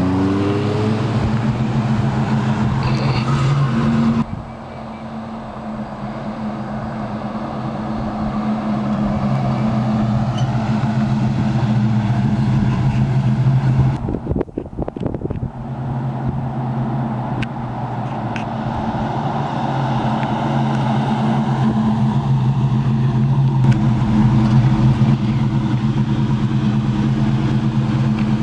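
1969 Chevrolet C10 pickup's 350 V8 running under way through Loadmaster exhaust. The engine eases off about four seconds in, breaks briefly around the middle, then builds steadily again.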